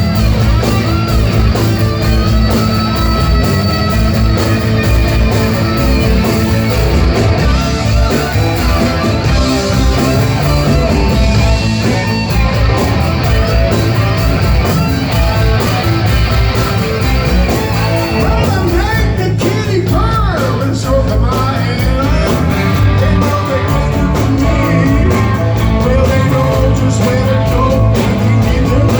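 Live hard rock band playing loud: electric guitars, bass and drums, with vocals at times.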